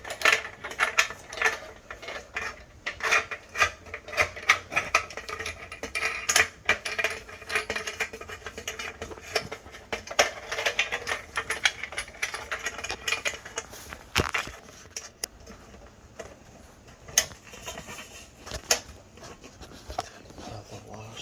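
Irregular metallic clicks, clinks and scrapes of shower fittings and washers being handled and fitted by hand against a stainless steel shower panel.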